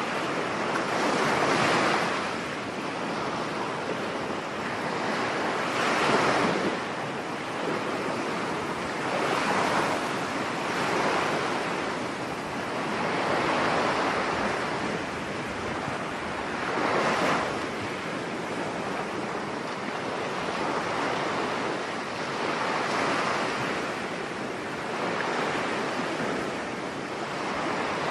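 Stormy surf breaking on a beach, each wave surging up and washing back every few seconds over a constant rush of water, with wind.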